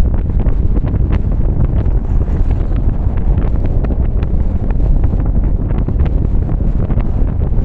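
Car driving in the rain: a steady, loud low rumble of road and wind noise, with many sharp, irregular ticks of raindrops striking throughout.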